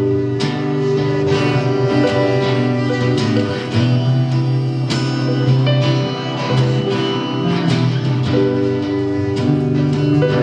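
A live band playing an instrumental passage of a song, led by guitar, with a steady beat and no singing.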